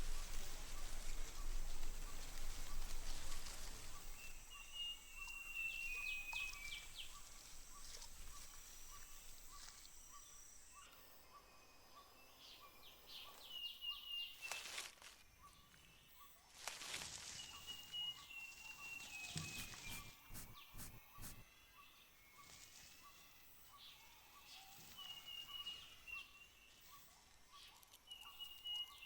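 Borneo rainforest ambience. Rain patter fades out over the first few seconds, then a bird's high whistled call, falling slightly at its end, repeats about five times. Under it run a faint steady insect pulse and scattered brief clicks.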